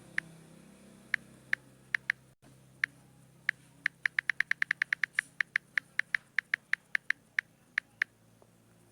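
Keyboard key-press clicks while typing text: about thirty short, sharp clicks at an uneven pace, quickening to around five a second in the middle, over a faint low hum.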